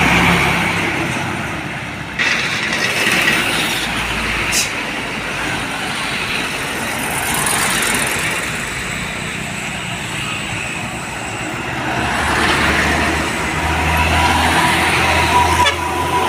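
Heavy trucks passing on a road: diesel engines and tyre noise swelling and fading as each goes by. A low engine drone builds near the end as a big truck comes close.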